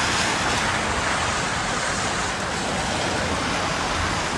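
Steady hiss of rain in a city street, blended with the even noise of road traffic.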